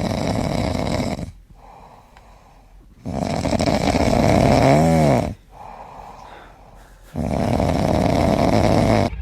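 Siberian husky snoring: three loud snores of about two seconds each, with softer breathing between them. The middle snore ends in a brief wavering whine.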